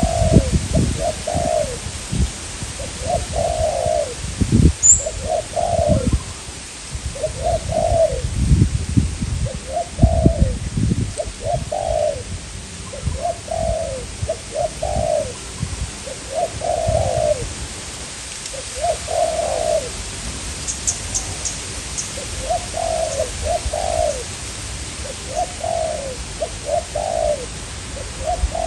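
Spotted doves cooing in repeated phrases of a few low notes every second or two: a caged decoy male and a wild dove calling. Strong wind rumbles in gusts on the microphone, and a small bird chirps briefly twice.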